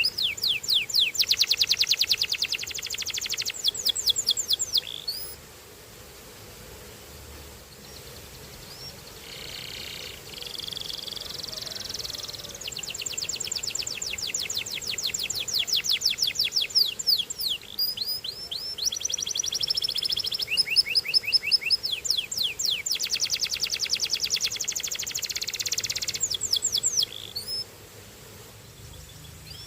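Belgian canary singing long trilled phrases of fast repeated notes, some rising or falling in pitch. The phrases are broken by short pauses of a few seconds.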